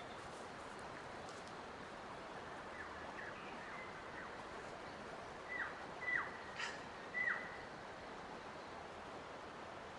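A bird gives a series of short calls, each sliding quickly downward in pitch. The loudest four come between about five and a half and seven and a half seconds in. A steady even hiss runs beneath them.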